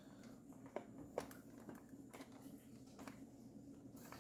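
Near silence: faint room tone with a low hum, and two faint clicks about a second in.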